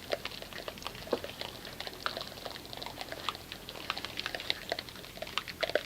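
Thick body-wash soap foam on a truck's paint crackling with many small irregular pops as its bubbles burst.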